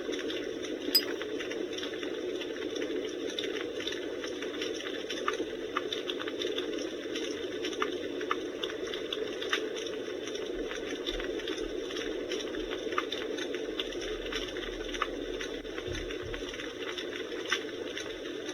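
Simulated campfire crackle from the Takara Tomy FireWood Home's built-in speaker: a steady hiss with scattered, irregular pops and snaps, and one sharper snap about a second in.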